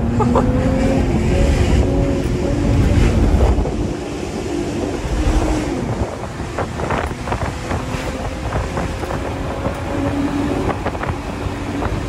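Sports car engine pulling hard under acceleration, its pitch climbing and stepping as it changes gear, heard from inside the moving car with wind and road noise.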